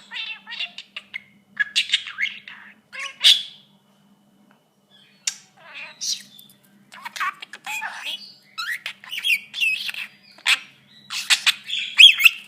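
Pet green budgerigar chattering: rapid warbling chirps mixed with sharp squawks and bits of mimicked talk. There is a short pause about four seconds in, and the loudest squawks come around three seconds in and near the end.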